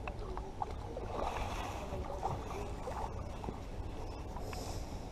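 Water lapping and lightly splashing around a kayak, with a few small knocks, over a steady low rumble.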